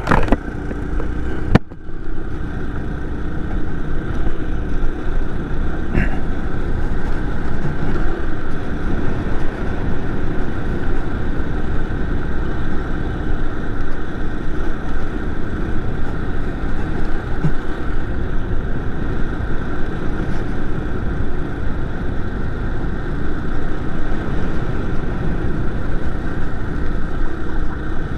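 49cc four-stroke motorized bicycle engine running steadily while riding, over a constant low rush of wind noise. A single sharp knock about a second and a half in.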